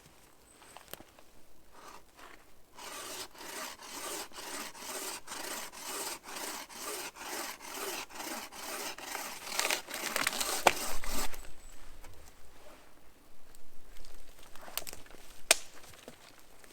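Handmade wooden frame saw cutting through wood in steady back-and-forth strokes, about three a second, stopping about two-thirds of the way through; a few sharp knocks follow.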